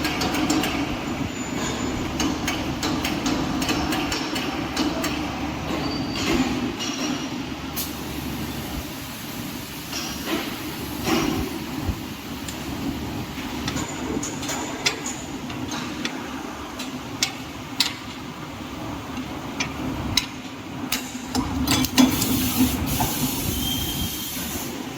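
Four-blade compressor shell cutter running, its blades cutting through a steel compressor case on a rotating platform: a steady low mechanical drone with frequent metallic clicks and knocks, busiest near the end.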